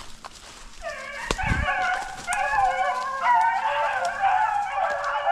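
Several hunting hounds baying together, their long, drawn-out bawls overlapping. It starts about a second in and grows louder.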